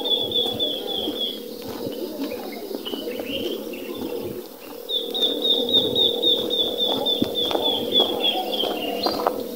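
Birds calling in rural open country: a high, rapid trill lasting a few seconds, then again for about four seconds from about five seconds in, over a steady low hum.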